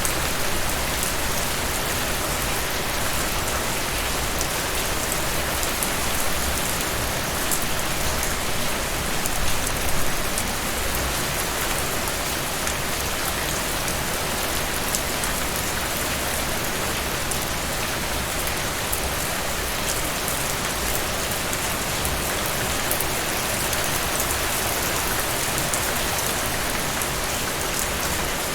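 Heavy rain falling steadily, a dense even hiss with fine drop ticks, swelling briefly about ten seconds in.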